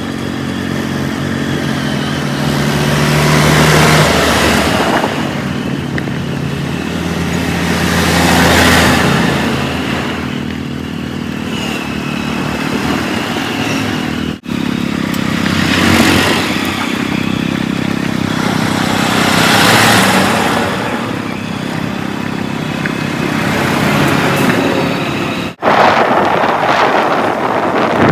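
Heavy diesel engines of earth-moving machinery running, swelling and falling again about every four seconds as they work under load, with two abrupt breaks about 14 and 25 seconds in.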